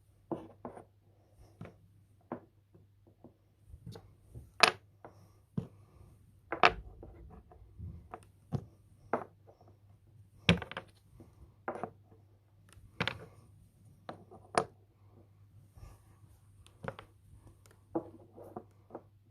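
Wooden Jenga blocks clicking and knocking against each other as they are set down and adjusted, in irregular sharp taps.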